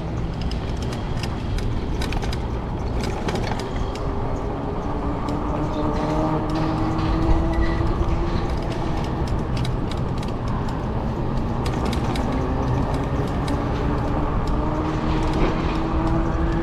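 Wind and rolling noise from riding an e-bike, with a steady hum that slowly rises in pitch and scattered light clicks.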